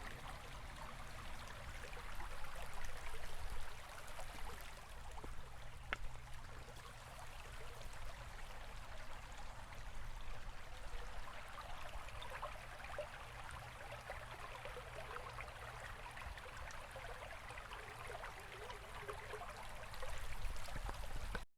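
Flowing water in a stream, an even splashing rush over a low rumble, cutting off suddenly at the very end.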